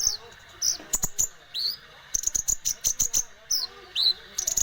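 Kolibri ninja sunbird singing hard: bursts of rapid, very high twittering trills mixed with short rising chirps, repeated about every half second to a second.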